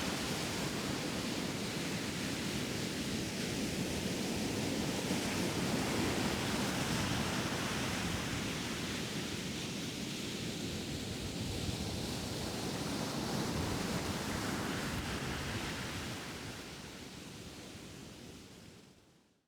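Ocean surf washing onto a beach: a steady rush with slow swells. It fades out near the end.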